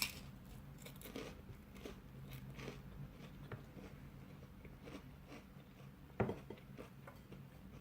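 A person biting and chewing thin, greasy Swedish pizza topped with ham and shrimp, with soft crunches and small wet mouth clicks, one sharper click at the start and another about six seconds in.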